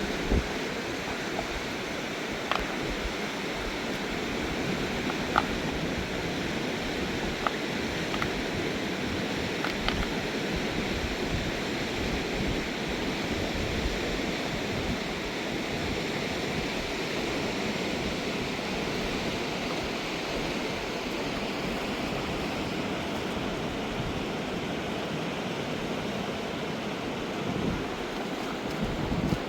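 Mountain river rushing steadily, with a few faint clicks in the first ten seconds or so.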